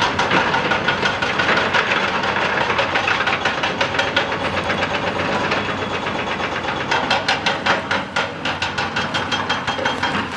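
Excavator-mounted hydraulic rock breaker hammering rock in a fast, steady run of impacts, with the machine's engine running underneath.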